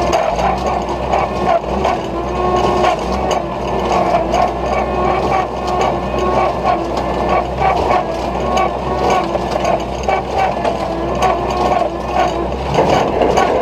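Oliver 770 tractor engine running steadily while it drives a Case 230 square baler, the baler's mechanism clattering with a constant run of clicks and knocks.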